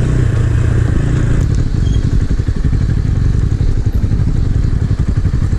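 Small 250 cc motorcycle engine running at low revs, a steady low note with quick, regular firing pulses.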